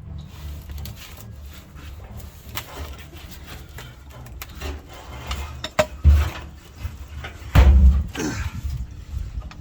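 Scattered clicks, knocks and clatter of hands and parts being worked on the underside of a pickup truck, with two heavy thumps about six and seven and a half seconds in.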